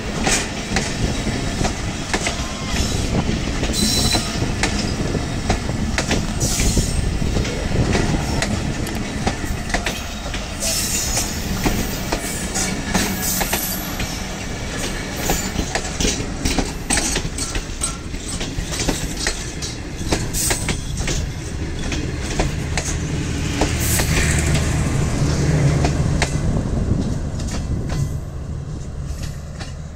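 Passenger train coaches rolling past close by: a steady rumble of wheels on rails, with a rapid clickety-clack over rail joints and a few brief wheel squeals. The rumble fades as the last coach passes near the end.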